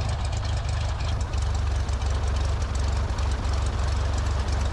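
Cessna 172 Skyhawk's four-cylinder piston engine and propeller idling, a steady low drone.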